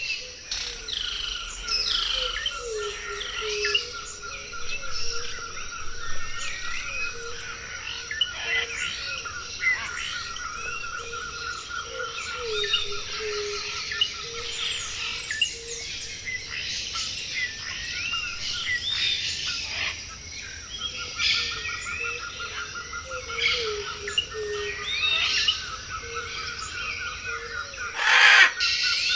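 Several forest birds calling and singing together: whistles and chirps, with a fast, even trill that breaks off midway and starts again, over a steady high-pitched hum. A brief loud noise near the end.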